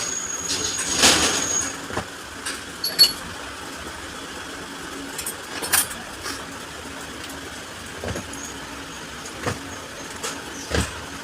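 Scattered clicks and knocks of metal parts and hand tools being handled during work on a diesel injection pump, about seven of them, the sharpest about three seconds in, over a steady background hum.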